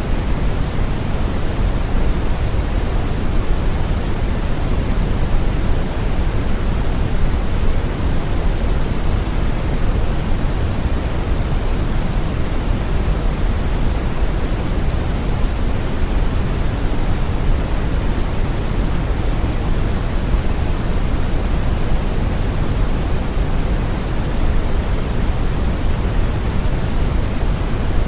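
Steady brown noise: a deep, even hiss, strongest in the bass and falling off toward the treble, with no change or events.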